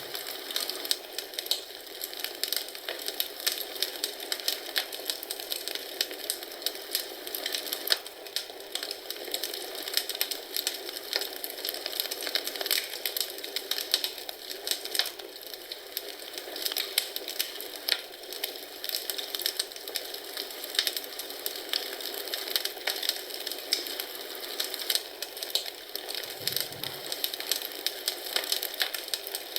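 Wood fire crackling in a fireplace, with many small irregular pops and snaps over a steady hiss.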